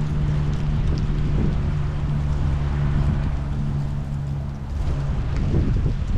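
Steady rain with heavy low wind rumble on the microphone. A steady low hum runs through the first half and then fades.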